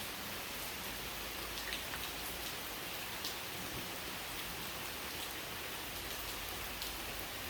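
Steady rain falling, with now and then a louder single drop ticking on a surface.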